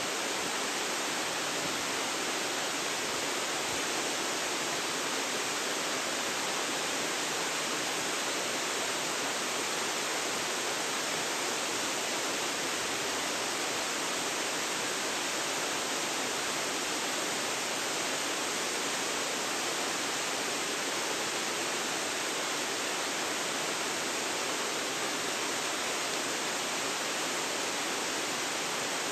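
Waterfall: a steady, even rush of falling water, mostly hiss with little deep rumble, picked up by a phone's built-in microphone.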